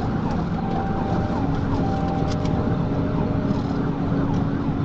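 Steady engine and road noise of a police vehicle in a high-speed pursuit, with its siren sounding over it.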